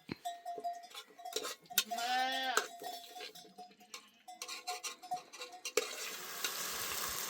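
A sheep or goat bleats once, a single rising-and-falling call about two seconds in, among scattered small knocks and clicks. About six seconds in, a steady hiss sets in.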